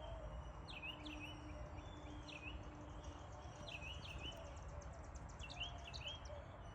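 Birds singing: one repeats a short, high chirping phrase about every second and a half, while a second, higher, rapid trill runs through the middle. A steady low rumble lies underneath.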